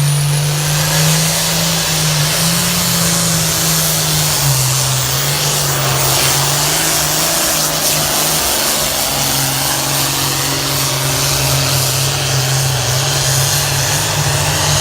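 Engine of a pull vehicle running hard at high revs under load during a pull, its pitch holding steady with small dips about four and a half and eight and a half seconds in.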